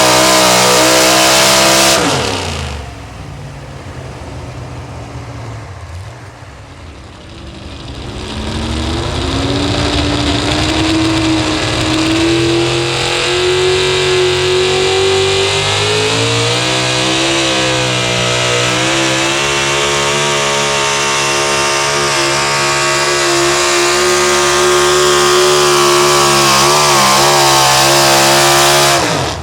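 Pulling truck's engine at high revs under load. About two seconds in it drops off sharply in pitch and level, then from about eight seconds it climbs back up and holds a steady high rev until it cuts off abruptly near the end.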